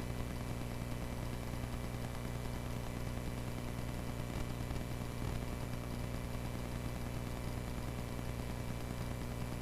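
Cessna 140A's light-aircraft engine and propeller droning steadily at constant power, heard from inside the small cabin.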